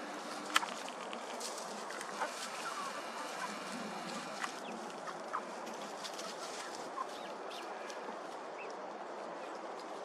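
A flock of poultry clucking softly over a steady outdoor hiss, with scattered short calls and sharp clicks; the loudest click comes about half a second in.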